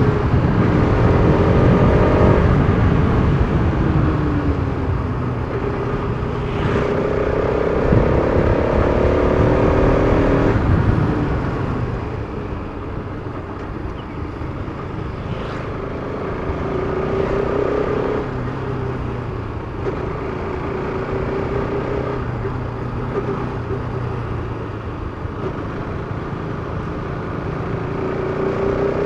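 Bajaj Pulsar RS200's single-cylinder engine under way: it pulls hard with its pitch climbing through the first ten seconds or so, then settles to a quieter, lower run, picking up again near the end.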